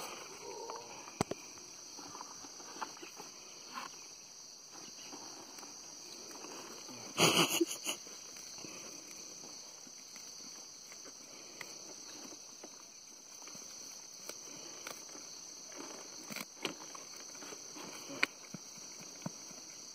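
Steady high chirring of crickets or similar insects, with scattered faint clicks and knocks and one short, louder burst of noise about seven seconds in.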